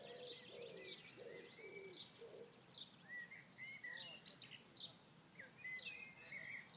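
Faint birdsong from several birds: many short chirps and whistles, with lower calls in the first two seconds.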